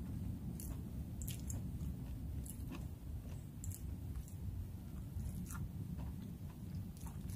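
A person chewing crunchy, pan-fried lion's mane mushroom with her mouth closed, with small crisp clicks about once a second over a steady low background rumble.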